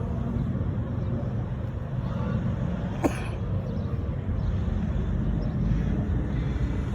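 Steady low outdoor rumble with one short, sharp sound about three seconds in.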